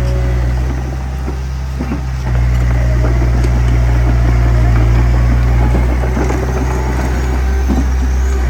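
Small bulldozer's diesel engine running steadily under work, with a rapid clatter over it; it gets louder about two seconds in.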